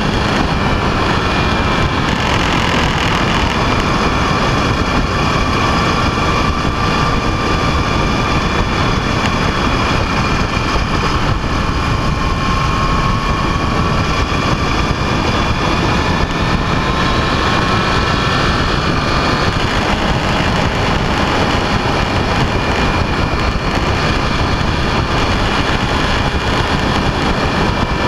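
Vehicle engine running steadily on the move under heavy wind and road noise, its whine drifting slightly in pitch as speed changes.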